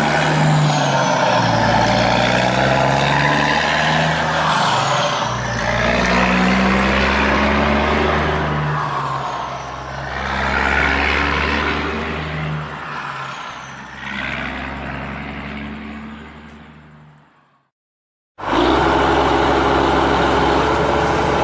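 Truck engine sound running, with its pitch rising and falling, fading away about 17 seconds in and then starting again abruptly after a short silence.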